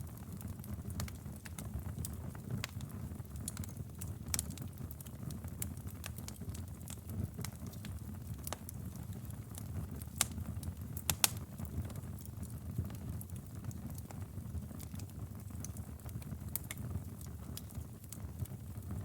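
Wood fire burning in a fireplace: a steady low rumble of flames with irregular crackles and sharp pops, two of them louder about halfway through.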